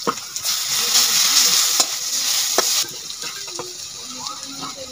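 Food frying in hot oil in a metal kadai, sizzling, while a metal spatula stirs it and clicks against the pan a few times. The sizzle drops away about three seconds in, leaving only faint sounds.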